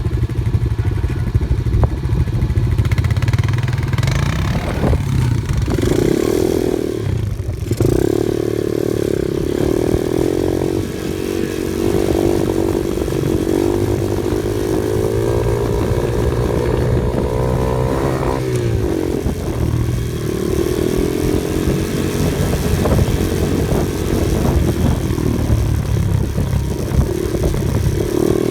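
Off-road vehicle engine running while driving a dirt trail. Its pitch climbs slowly over several seconds and then drops back about two-thirds of the way through.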